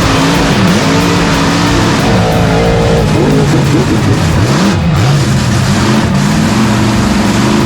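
Mega truck engines revving hard in a race, their pitch rising and falling again and again, more than one engine heard at once.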